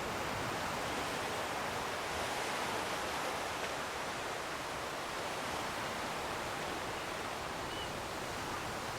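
Steady coastal ambience: an even wash of distant sea surf and wind, with no distinct wave breaks.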